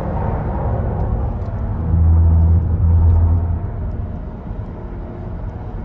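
Low rumble of a moving vehicle, swelling louder for a second or two about two seconds in before easing off.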